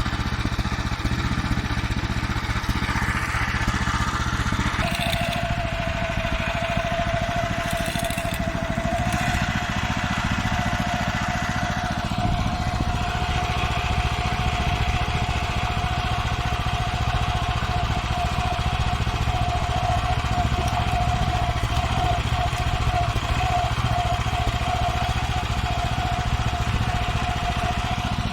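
Farmer 1511 walk-behind tractor's engine running steadily as the machine is driven along. About five seconds in, a steady whine joins it and continues.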